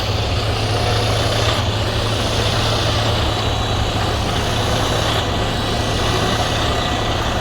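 Semi truck's diesel engine idling steadily with a constant low hum.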